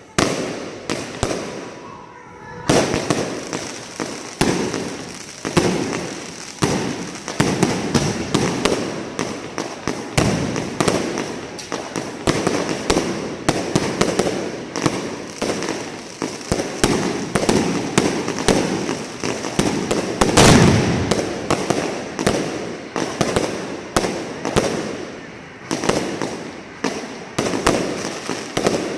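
Fireworks going off in rapid succession: a near-constant run of sharp bangs and crackles, with one louder blast about twenty seconds in.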